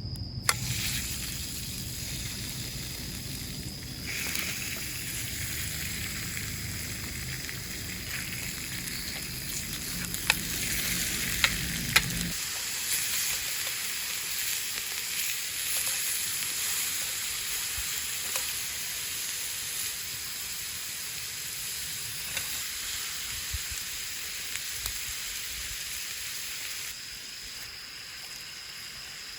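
Food sizzling steadily in a pan over a campfire, with a few sharp pops.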